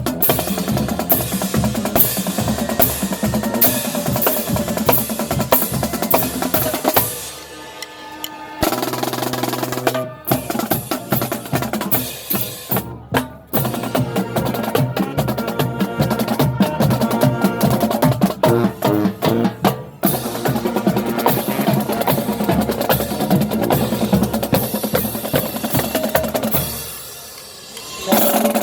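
Marching band playing on the move, its drumline of snare and bass drums beating out a steady rhythm under the band's pitched parts. The sound drops away briefly twice.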